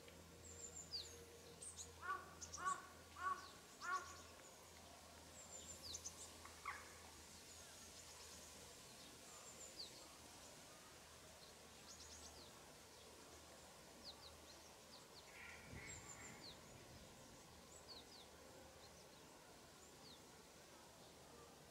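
Quiet outdoor ambience with wild birds calling: a run of four harsh calls about two to four seconds in, and thin, high-pitched chirps scattered throughout, over a faint low hum.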